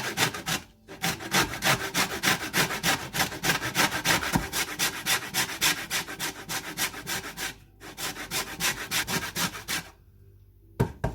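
Citrus peel being grated on a zester in fast, even rasping strokes, about four a second. There are two brief pauses, and the strokes stop shortly before the end.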